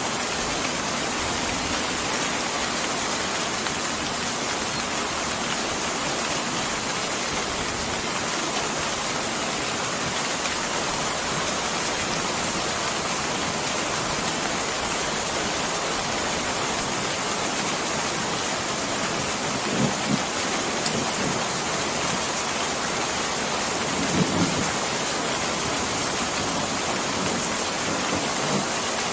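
Steady, heavy rain falling with a dense, even hiss, with a few brief low thumps about two-thirds of the way through.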